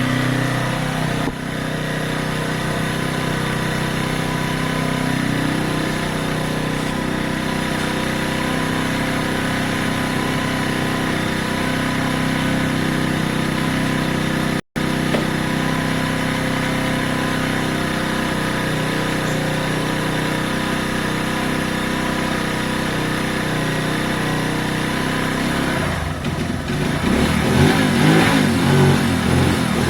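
Keeway 125cc motorcycle engine idling steadily, then revved, louder and wavering in pitch, over the last few seconds.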